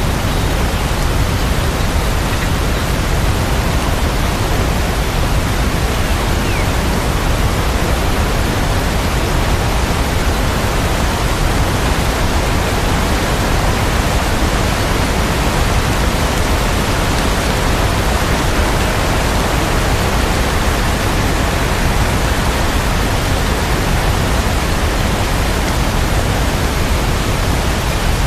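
Steady, even rain sound: a continuous dense hiss with no separate drops, thunder or music.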